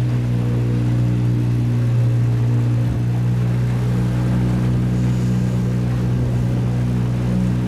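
A boat's motor running steadily at a constant speed, an even engine drone that neither rises nor falls.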